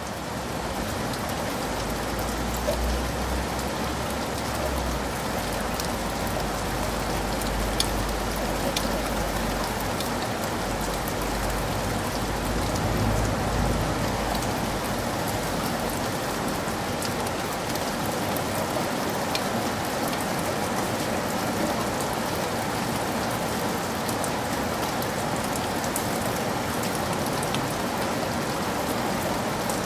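Heavy rain falling steadily, with individual drops ticking close by. A low rumble runs underneath through roughly the first half, then fades away.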